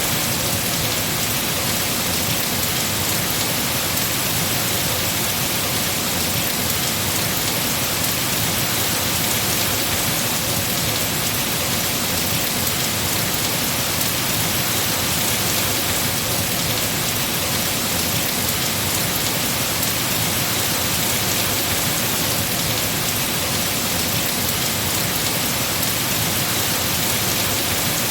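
Heavy rain falling steadily on trees and foliage, a dense, even hiss of drops.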